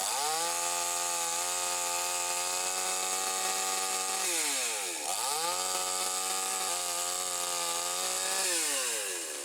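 Chainsaw engine revving up and held at high throttle while sawing into a tree. It drops almost to idle about halfway through, revs straight back up, and falls away again near the end.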